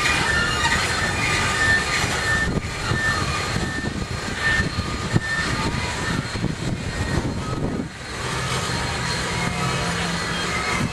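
Steady mechanical rumble and hiss from a standing train with a steam locomotive at its head, with short high squealing tones in the first few seconds and a low hum that joins about eight seconds in.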